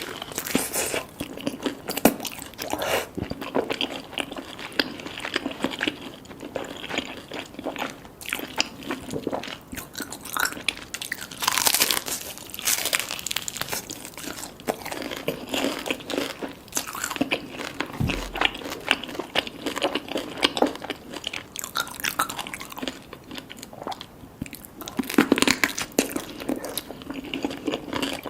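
Close-miked eating sounds: crispy fried chicken skin crunching in repeated bites, with chewing in between.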